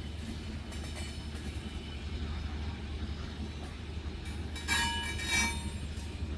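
Long iron-ore freight train rolling along with a steady low rumble. A brief, loud, high-pitched metallic wheel squeal comes about three-quarters of the way through, with a fainter squeal about a second in.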